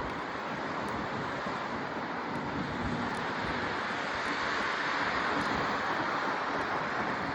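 Wind rushing over the microphone while riding a bicycle, a steady rush that swells a little about halfway through.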